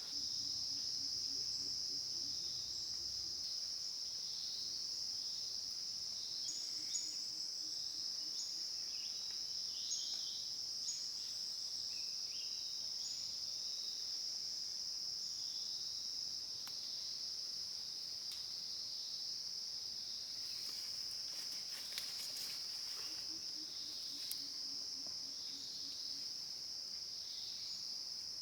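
Insects calling in a steady, high-pitched, unbroken chorus, with a few faint short bird chirps and scattered light clicks over it.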